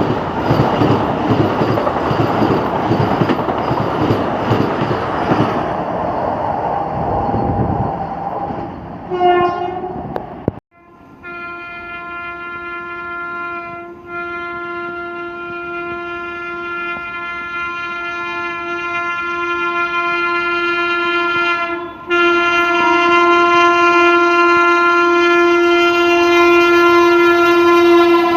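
Express train running through at speed with loud wheel and carriage clatter, then a short horn blast about nine seconds in. After a sudden break, a train horn is held in one long steady tone for most of the rest, dipping briefly twice.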